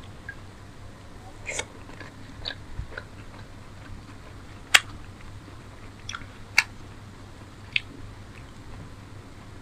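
Close-miked eating sounds: chewing and biting on chicken curry and paratha, with about six short sharp mouth clicks scattered through, the loudest near the middle.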